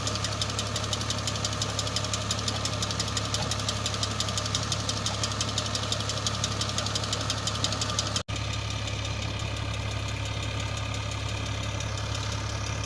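New Holland Ghazi tractor's diesel engine running steadily with a fast, even firing pulse, driving the tubewell pump through its shaft. About eight seconds in, the sound drops out for an instant and then carries on a little duller.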